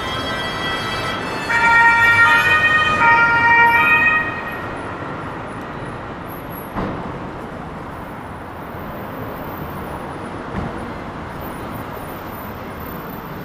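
An emergency vehicle's two-tone siren sounds loudly for a few seconds, its pitch stepping up and down, and stops about four seconds in. Steady city traffic noise follows, with two short knocks.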